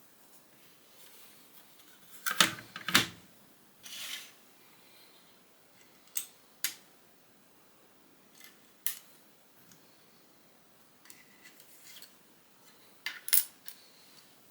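Plastic Lego pieces being handled, clicking and clattering against each other. A loud cluster of clicks comes about two seconds in, then scattered single clicks, and another loud cluster near the end.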